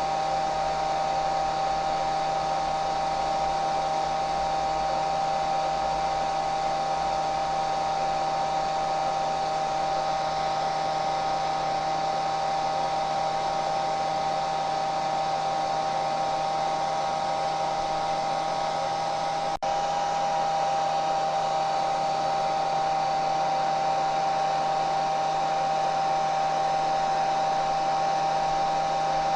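Hair dryer running continuously: a steady rush of air with a constant motor whine, broken only by a split-second dip about two-thirds of the way through.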